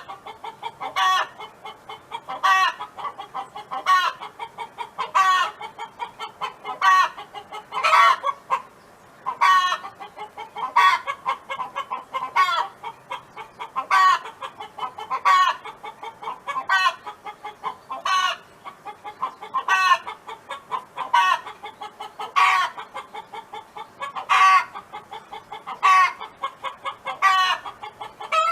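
Domestic hen clucking in a steady, repeated series: a louder call about every second and a half, with softer clucks in between and a brief pause about nine seconds in.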